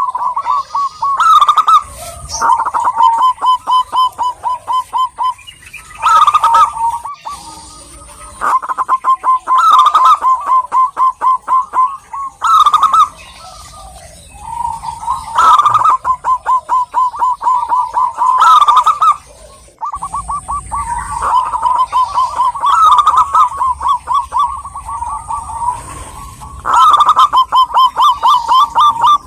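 Zebra dove (perkutut) cooing: a string of repeated phrases, each a rapid run of staccato pulsed notes, with short pauses between phrases.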